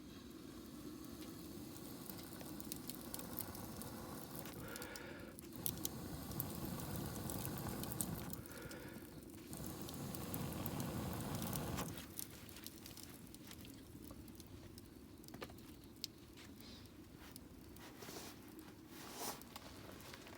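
Wood campfire burning, with scattered sharp crackles and pops over a soft hiss; a louder low rushing noise swells in the middle and drops away about twelve seconds in.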